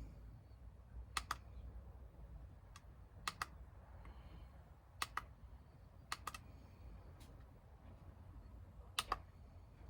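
Buttons pressed on a small plastic control pad for LED dash strobe lights: sharp clicks, mostly in quick press-and-release pairs, every second or two, about seven times.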